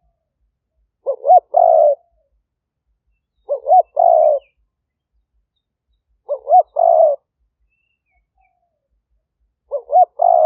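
Spotted dove cooing: four calls about two and a half seconds apart. Each is two quick rising notes followed by a longer coo.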